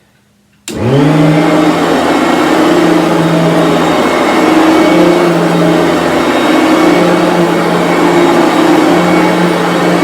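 Bissell BigGreen Commercial upright vacuum cleaner switched on under a second in: its motor spins up quickly with a brief rising whine, then runs loud and steady with a strong airflow rush.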